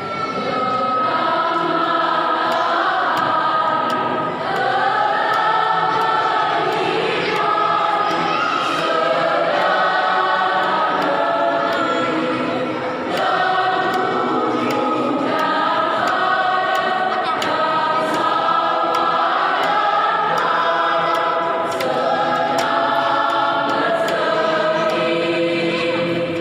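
Church choir singing a hymn in several voice parts, steady and sustained.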